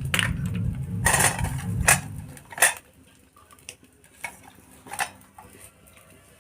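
Metal dishes and utensils clinking and scraping: several sharp clinks in the first few seconds, over a low rumble that stops after about two seconds, then a few fainter clinks.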